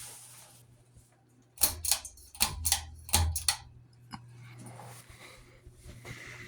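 Six-blade Litex Close Up ceiling fan running with a steady low motor hum. From about a second and a half in, a quick run of about eight sharp clicks and knocks lasting about two seconds, the loudest sound here.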